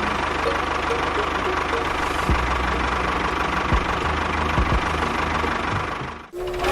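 An engine running steadily with a low, even pulsing, cut off abruptly about six seconds in and then resuming.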